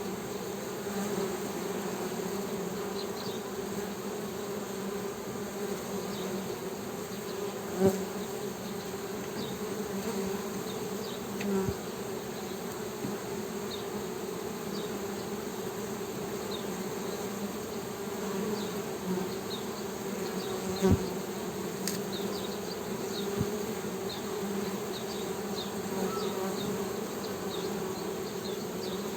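Honey bees humming in a steady, continuous drone. A few brief knocks come about 8, 12 and 21 seconds in, and faint high chirps are scattered through.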